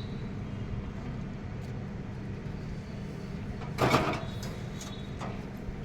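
Steady low machine hum with a constant tone, with a few light ticks and one louder metallic knock about four seconds in.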